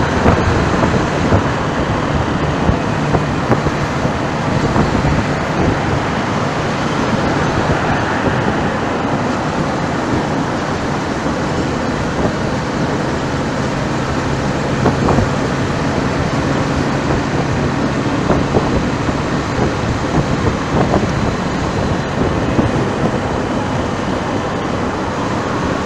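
Steady road traffic noise with wind noise over it, and a steady low engine hum underneath.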